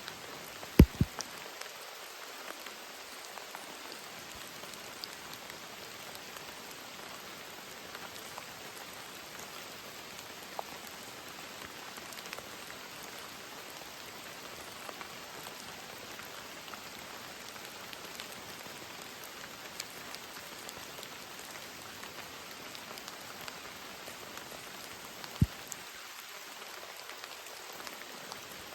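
Steady rain falling, with a few sharp, louder drop hits: two about a second in and one near the end.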